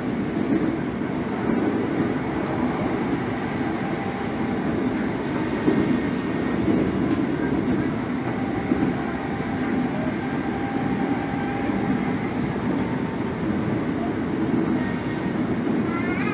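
Steady running noise heard inside a Tokyo Metro 05 series electric commuter car under way: the rumble of wheels on rails and traction gear, with faint higher tones over it and a light knock or two.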